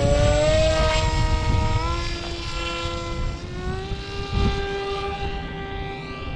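Electric motor and propeller of an RC foam combat wing whining at a steady pitch that steps slightly with throttle changes, over the low rumble of wind on the microphone.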